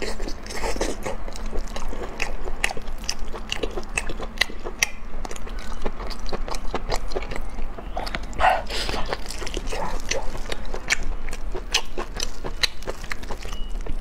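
Close-miked wet chewing and biting of sauced octopus, with many sharp, irregular mouth clicks.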